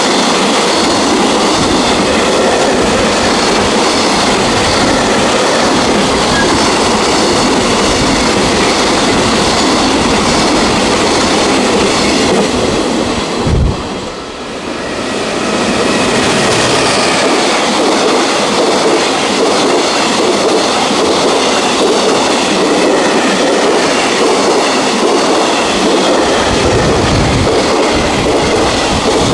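JR Freight container train passing close by, its wagons' wheels running steadily on the rails. The sound dips briefly about halfway through, then carries on.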